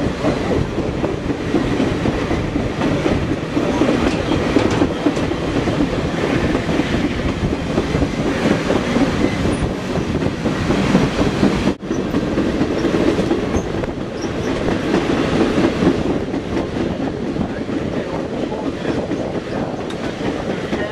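Steady rumble and clatter of a train rolling along the rails, heard from aboard the moving train, with clicking over the rail joints. A brief break comes about twelve seconds in.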